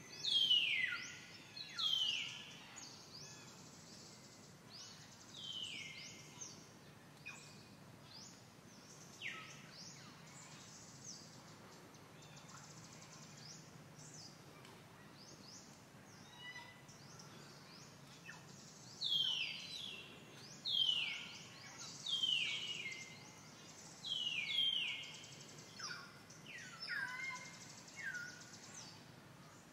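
Birds calling: short, sharp notes that sweep downward in pitch, coming in clusters near the start and again through the last third, over a faint steady background hiss.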